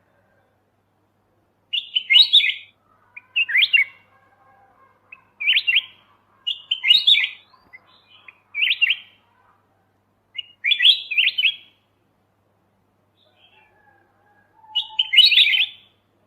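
Kutilang emas bulbul singing: about eight short, quick phrases of bright notes, each under a second long, separated by brief pauses.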